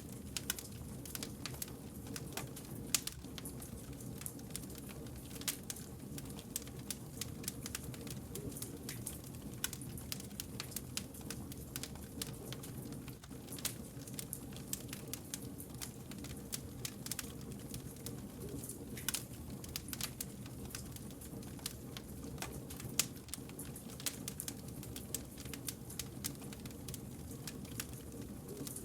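Wood campfire burning: irregular crackles and pops of the burning logs over a steady low rumble, one louder pop about three seconds in.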